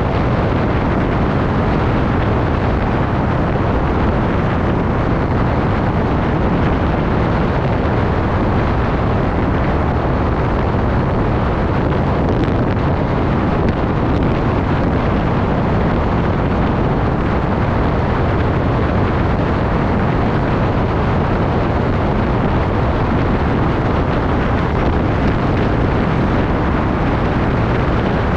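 Steady wind rush on the microphone of a moving bike, a loud even noise heaviest in the low end, with no engine note or sudden events standing out.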